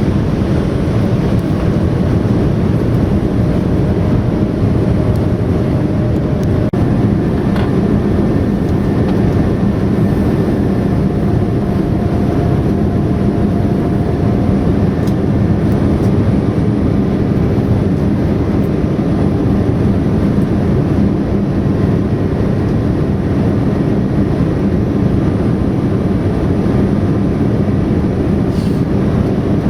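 Jet airliner's engines and airflow, a steady loud rumble with no change in level.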